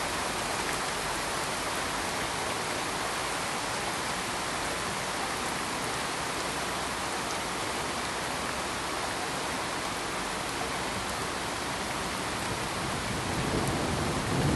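Steady, even pink-noise hiss that sounds like heavy rain. A low rumble like thunder starts to build near the end.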